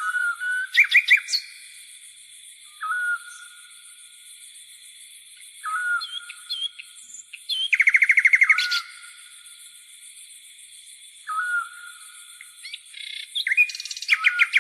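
Birds calling with short whistled notes every few seconds, with a rapid trill about eight seconds in and bursts of chirps near the start and end, over a continuous high-pitched buzz of grasshoppers.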